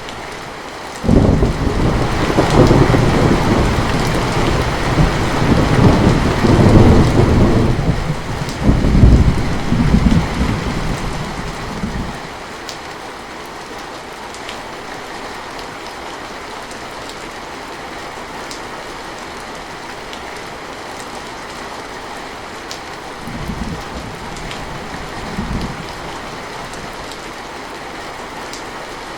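Heavy rain falling steadily, with a long clap of thunder that breaks in sharply about a second in and rolls in several surges for about eleven seconds, then two brief low rumbles near the end.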